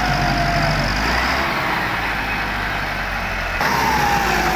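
Tractor diesel engine running steadily, the sound changing abruptly about a second and a half in and again near the end.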